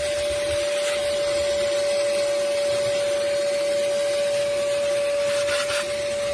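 Vacuum cleaner running steadily: a constant motor whine over a rushing hiss of air, used to suck sand out of the engine.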